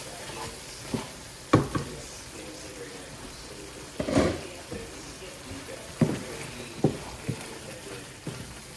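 Kitchen clatter while cooking: about eight uneven knocks and clinks of utensils against cookware over a low frying sizzle.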